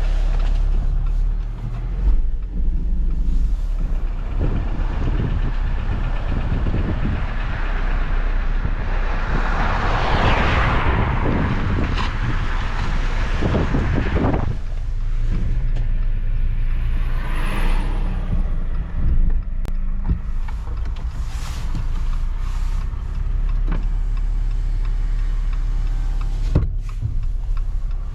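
Semi truck's engine running with a steady low rumble, and a loud rushing noise that swells around ten seconds in and fades a few seconds later, with a smaller one near the end.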